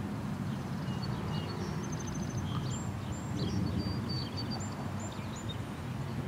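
Several small birds chirping and whistling in short high notes over a steady low rumble.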